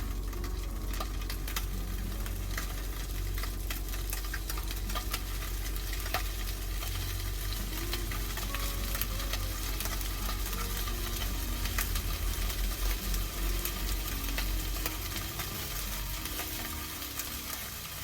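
Food frying and sizzling in a pan, with scattered small clicks and crackles throughout.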